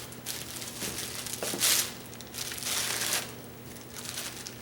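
Packing wrapping crinkling and rustling as it is handled and pulled open by hand, in uneven bursts, loudest about one and a half seconds in and again around three seconds in.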